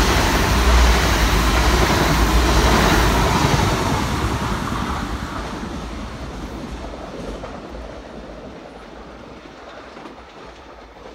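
Irish Rail 22000 Class InterCity Railcar, a diesel multiple unit, passing at speed. It is loud for the first four seconds or so, then fades steadily as it draws away.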